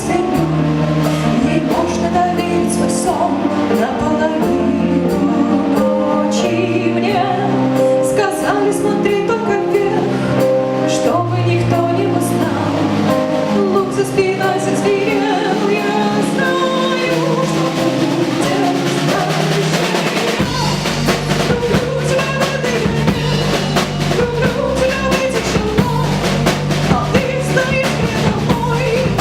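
Live band music: singing over pitched instruments and a drum kit, with a low bass part coming in about two-thirds of the way through.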